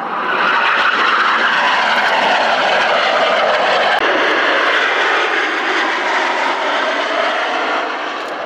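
Military jet aircraft passing, its loud engine noise coming up sharply at the start, holding steady, with the pitch slowly falling, then easing off near the end.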